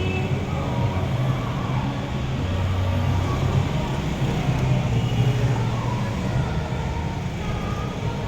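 A vehicle engine running steadily with a low hum, with scattered voices of people around it.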